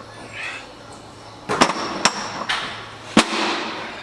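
Three sharp metallic bangs with a brief ring after each, from steel exhaust tubing being knocked or struck while it is fitted. Two come about half a second apart a second and a half in, and the loudest comes near the three-second mark.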